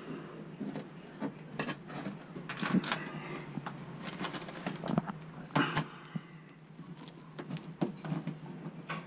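Irregular clicks, knocks and short scrapes of metal parts and panels being handled on an air-conditioning unit, over a steady low hum.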